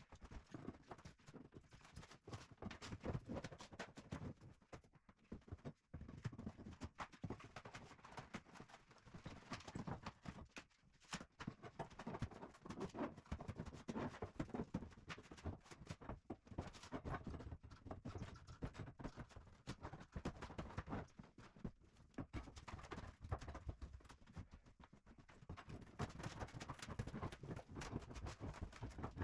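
Irregular knocking, cracking and scraping as hardboard (fibreboard) sheets are pried and torn up from a wooden floor. The edges are stuck down and come away hard.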